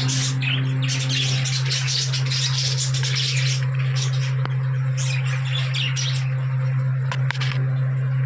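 A flock of budgerigars chirping and chattering, dense for the first few seconds and then thinning to scattered calls, over a steady low hum.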